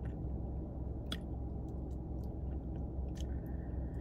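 A person chewing and licking her fingers: faint wet mouth clicks and smacks, a handful of them, over a steady low hum.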